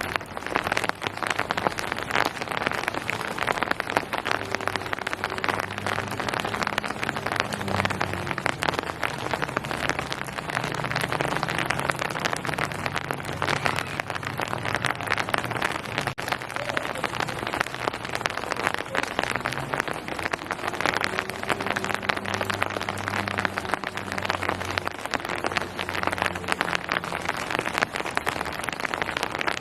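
Steady rain falling on hard surfaces, a dense patter of countless fine drops. A faint low hum comes and goes underneath.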